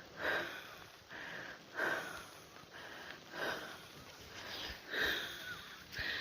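A person breathing heavily close to the microphone, a loud breath about every one and a half seconds with softer ones between.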